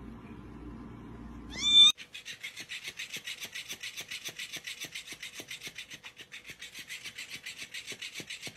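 A cat meows loudly once, its pitch rising, near the start. It is followed by a steady, even rasping or rubbing of about five strokes a second.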